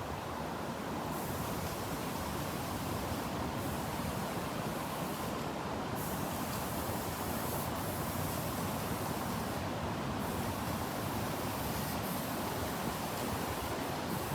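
Strong thunderstorm wind, a steady, dense rushing noise that holds at one level throughout.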